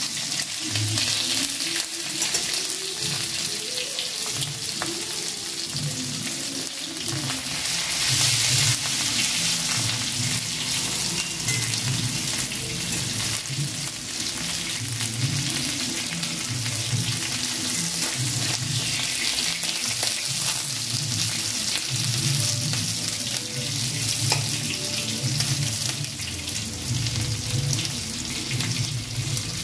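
Pointed gourd (potol) pieces frying in hot oil in a steel kadai: a steady sizzle, with a metal spatula stirring and turning them.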